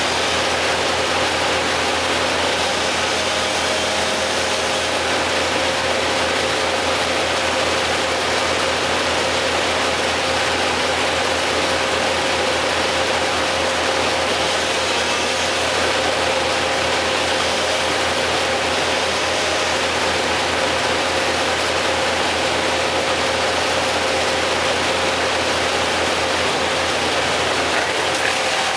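An engine running steadily at constant speed, a loud even drone with a steady hum and no change in pitch.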